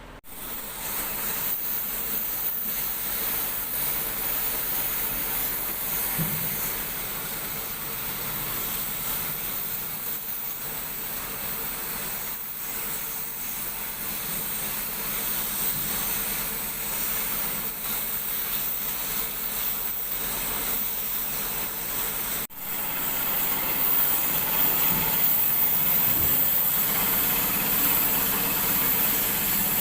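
Steady hissing noise that cuts off abruptly about 22 seconds in and resumes slightly louder.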